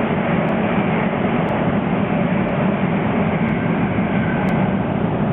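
Sapporo Namboku Line rubber-tyred subway train running through the station, a steady noise with no breaks or sudden sounds.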